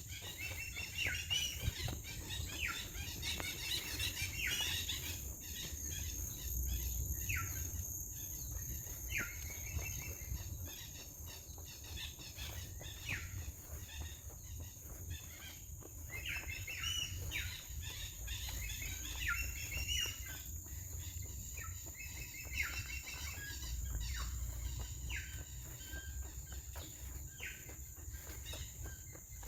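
Forest birds calling in repeated short, falling chirps over a steady high-pitched drone of insects.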